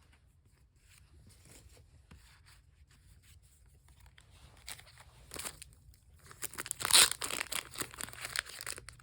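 A foil Pokémon booster pack wrapper being torn open and crinkled, after a few seconds of faint card handling; the tearing crackle is loudest about seven seconds in.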